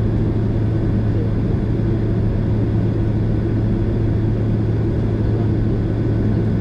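Steady low cabin noise inside a Boeing 767 airliner, with a constant deep hum from the engines and air systems.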